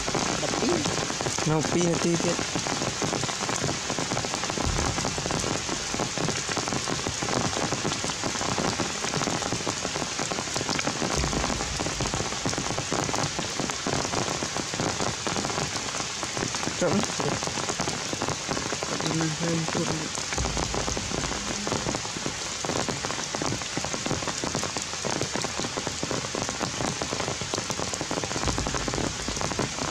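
Steady rain falling on forest leaves and tree bark, an even dense patter of drops.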